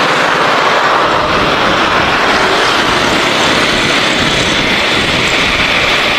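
Jet engines of an Airbus A350-900 airliner running, a loud steady rushing noise.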